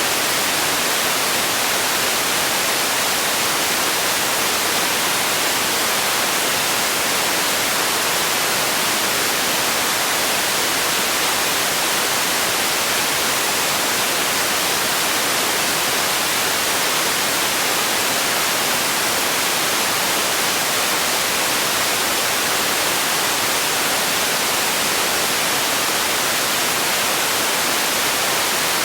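Steady, unchanging hiss of generated noise for sleep, brighter in the highs than in the lows, with no events or changes.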